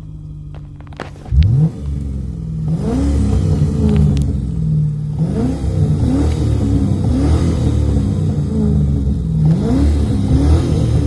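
V8 car engine revved hard again and again: after a quieter first second it jumps with a sharp rev, then keeps climbing and dropping in pitch about once a second.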